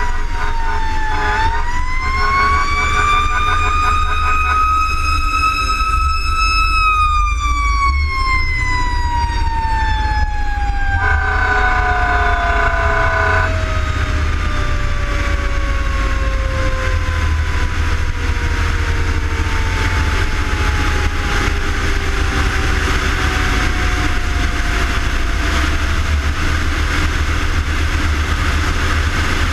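Fire engine siren winding up to a peak, then slowly winding down over about twenty seconds, with a horn blast of a couple of seconds near the middle and the truck's engine rumbling low underneath.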